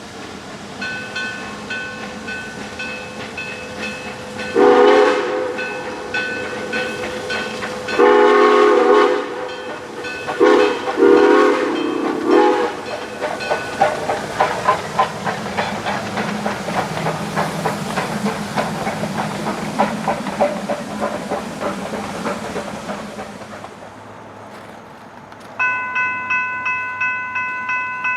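A train sounds the grade-crossing signal: two long blasts, a short one and a long one, over a crossing bell ringing steadily. The train then rolls past with the clickety-clack of wheels on rail joints. Near the end the crossing bell rings on alone, about three strikes a second.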